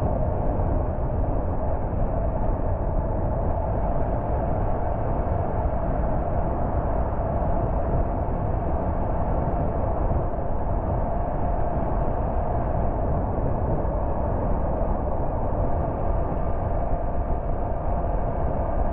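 A car driving at a steady speed: steady road rumble and engine drone with no sudden events.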